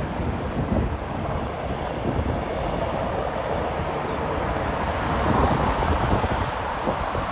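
Airplane engine noise, swelling a little about five seconds in, with wind buffeting the microphone.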